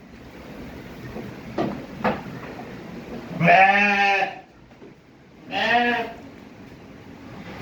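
Dumba (fat-tailed) sheep bleating twice, a call of about a second and then a shorter one, with a couple of faint clicks before them.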